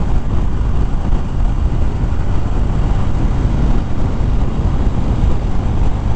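Wind rushing over a helmet-mounted microphone on a moving motorcycle, with a 2013 Harley-Davidson Fat Bob's V-twin engine running underneath; a steady, loud noise with no breaks.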